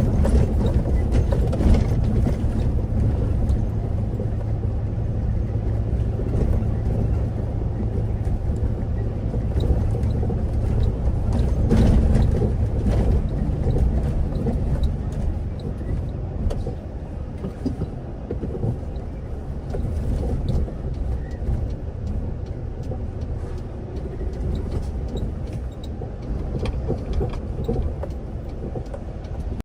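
A medium-duty wing-body truck's diesel engine running with a steady low drone, a few light clicks over it, easing slightly in the second half.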